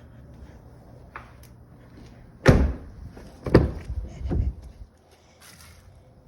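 Heavy thuds of a pickup truck's cab door being handled and shut: a loud thud about two and a half seconds in, then two more about a second apart.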